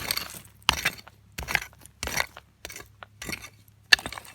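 Gravel being dug and scraped: rough gritty strokes with small clinks of stones, about one every two-thirds of a second.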